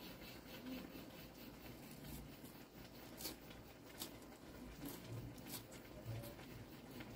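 Faint, close chewing of a chocolate-covered KitKat wafer, with soft mouth sounds and a few sharp crisp crunches in the middle.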